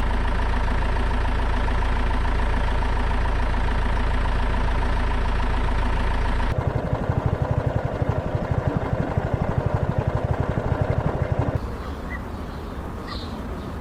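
Truck engine running steadily. About six and a half seconds in, the sound cuts abruptly to a louder, rapid, even pulsing. Near the end it drops to a quieter background with a few short bird chirps.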